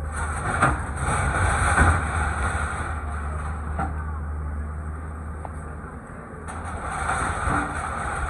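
Heavy demolition machine's diesel engine running steadily, with a few short knocks.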